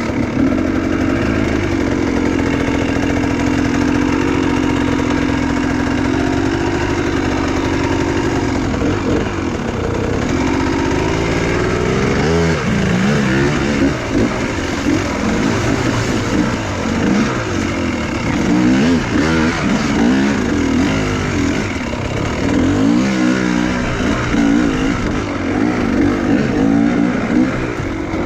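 Enduro motorcycle engine running at steady revs for about eight seconds, then revving up and down over and over as the throttle is worked.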